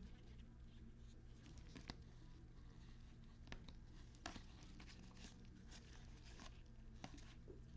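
Near silence with a few faint, scattered clicks and light rustles of trading cards being handled and set down.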